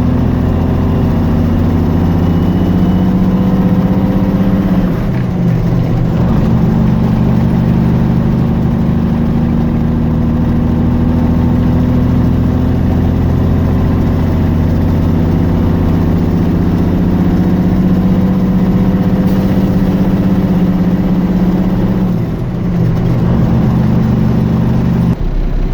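Semi truck's diesel engine running steadily under way, its pitch dipping briefly and picking up again twice, about five seconds in and again near the end.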